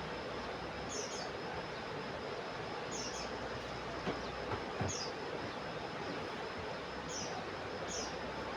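Common iora (cipoh) call: a short high note repeated about once a second over a steady hiss.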